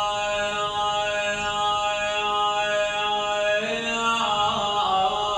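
A male reciter chanting an Arabic elegy, holding one long drawn-out note that shifts to another pitch about three and a half seconds in.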